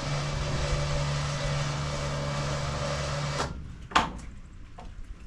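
A motor runs steadily with a low hum for about three and a half seconds, then cuts off suddenly; about half a second later comes a single sharp click.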